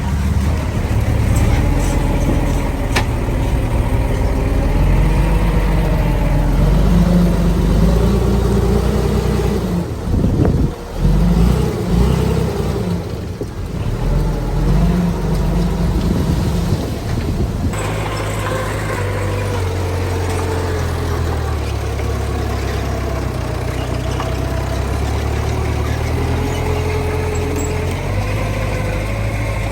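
Heavy diesel earthmoving machinery running, its engine pitch rising and falling as it works, with a short dip around a third of the way in and a steadier engine note from about two-thirds of the way.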